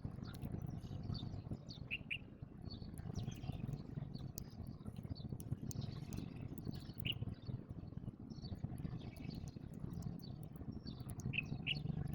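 House sparrows chirping in short, scattered chirps, a few at a time, over a steady low background rumble.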